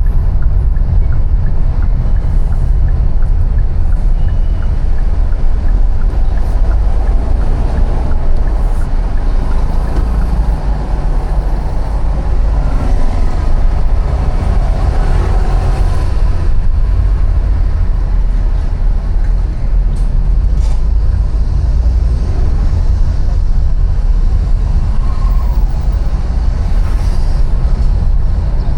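City street traffic heard while riding, under a heavy, steady low rumble of wind on the microphone; the traffic noise swells a little about halfway through.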